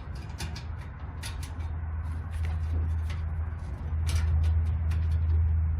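Scattered clicks and light knocks of sheet-metal dryer parts being handled, over a steady low hum that grows louder about two seconds in.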